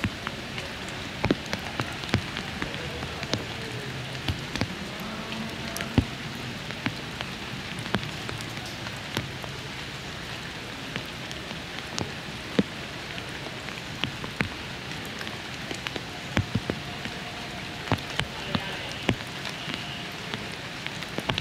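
Steady rain falling, with frequent sharp, irregular ticks of raindrops striking close by.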